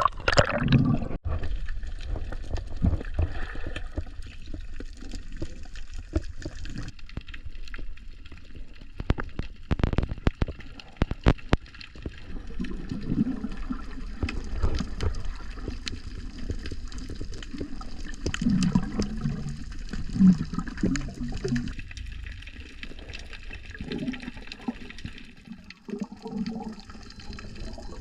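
Seawater sloshing and gurgling around a camera in the water, with uneven rushes, scattered sharp clicks and bubbling gurgles.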